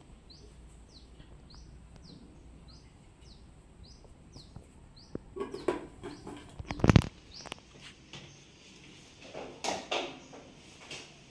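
A bird chirping over and over, a short high falling chirp about twice a second, for the first five seconds. Then come a few knocks and clatters, the loudest a sharp knock about seven seconds in.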